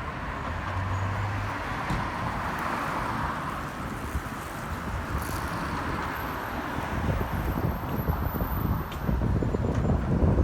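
City street traffic running steadily, with wind gusting on the microphone as a low rumble that gets heavier near the end.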